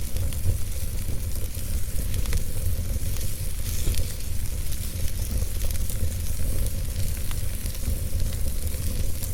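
Wood fire crackling, with scattered sharp pops over a steady hiss and a constant low rumble beneath.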